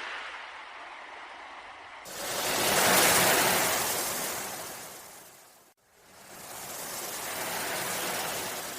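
Ocean waves washing in and receding in long swells: a louder wave surges in abruptly about two seconds in and fades, the sound cuts out for an instant just past the middle, and another wave swells up near the end.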